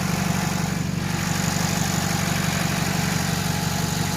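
Engine idling steadily, an even low drone with no change in speed.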